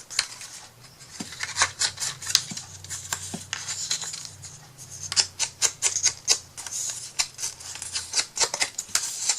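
Scissors snipping repeatedly, a quick irregular run of sharp clicks as a strip is cut.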